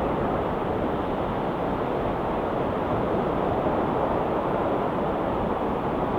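Ocean surf washing steadily, a constant even rush of noise with no single breaking wave standing out.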